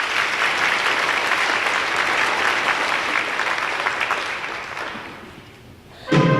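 Audience applauding a welcome, dying away over about five seconds. Near the end the orchestra comes in abruptly with its first chord.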